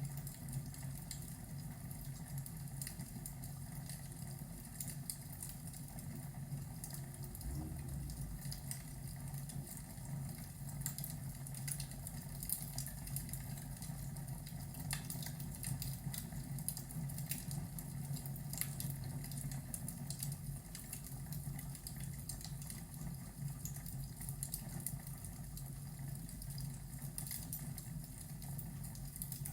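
Ambience of a fireplace crackling with irregular small pops, over a steady low rush of rain.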